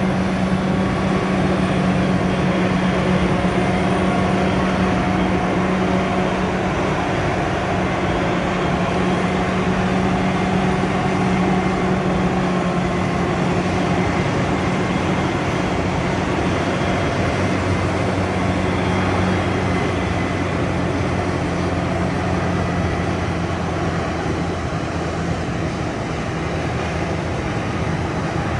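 Large farm tractor or harvester engine running steadily at constant revs, with a lower hum joining about halfway through.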